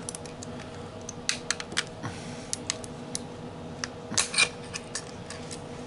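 Screwdriver working against the cast aluminium housing of a throttle body: irregular sharp metal clicks and short scrapes, with a denser run of scraping about four seconds in. A faint steady hum lies underneath.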